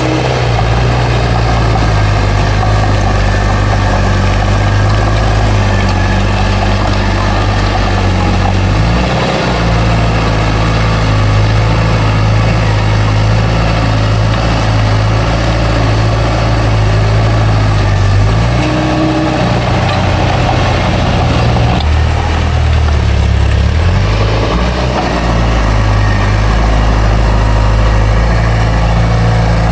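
Diesel engine of a heavy earthmoving machine running steadily. Its pitch shifts about nine seconds in and changes several times between about 18 and 25 seconds.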